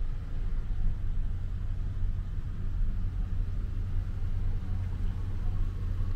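Low, steady rumble of a vehicle's engine, heard from inside the cabin.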